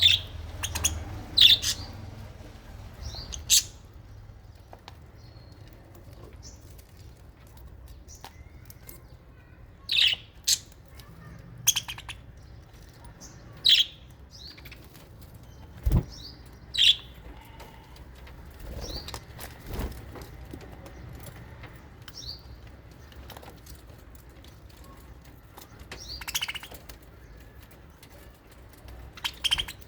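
Budgerigars and lovebirds in an aviary giving short, sharp chirps, scattered every second or few seconds, with a single knock about halfway through.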